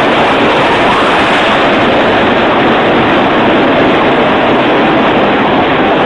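Floodwater rushing in a loud, steady roar that holds even throughout.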